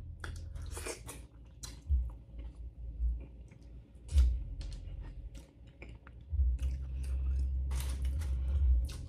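Close-miked chewing of a handful of egusi soup, with sharp wet mouth clicks. Underneath is the muffled bass of loud music from the neighbours, heaviest in the second half.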